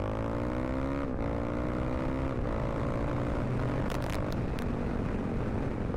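Supermoto motorcycle engine accelerating away, its pitch climbing through two upshifts, about one and two and a half seconds in, then running at a steadier speed.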